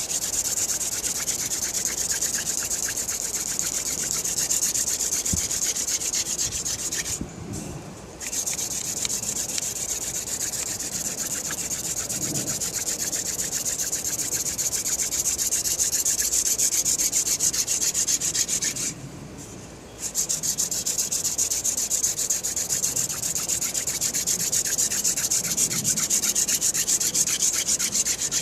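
Wooden hand-drill spindle spun back and forth between the palms, grinding in a wooden hearth board to make friction-fire dust: a fast, rhythmic rubbing with two short breaks, about seven seconds and about nineteen seconds in.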